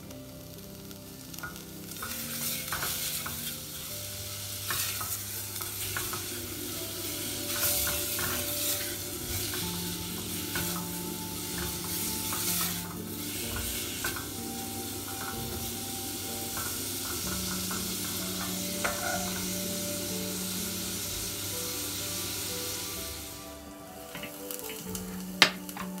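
Food sizzling as it fries in a pan, with repeated scrapes and taps of stirring. The sizzle dies away about twenty-three seconds in, and a single sharp click comes near the end.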